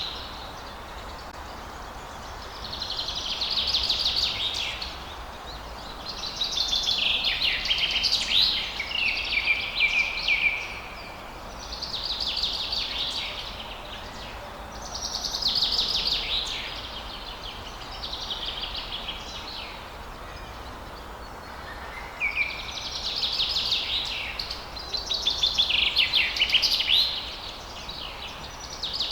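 Songbirds singing in repeated phrases of two to four seconds each, with short pauses between them, over a faint steady background hiss.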